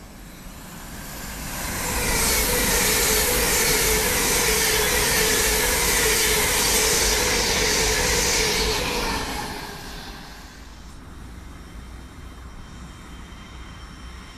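An LNER Azuma high-speed electric train passing close at speed: its wheel and running noise with a steady hum builds over about two seconds, holds for roughly seven seconds, and fades quickly as the train clears.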